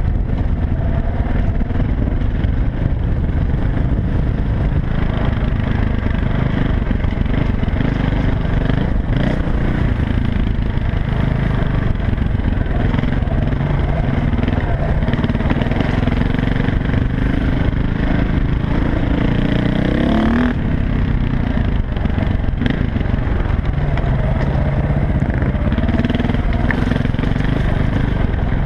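Dirt bike engine running while being ridden, its pitch rising and falling with the throttle, with a quick rev upward about twenty seconds in.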